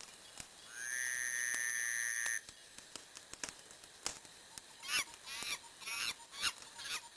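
Wood fire crackling with sharp pops, and the burning logs whistling. A steady high whistle rises and then holds for about a second and a half near the start. Later comes a run of short, wavering squeals: steam and gas jetting out of the wood.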